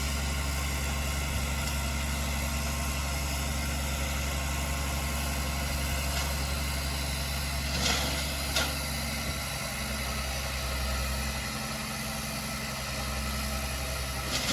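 Heavy diesel engine of earthmoving equipment running steadily at a low, even pitch, with two brief sharp clanks about eight seconds in.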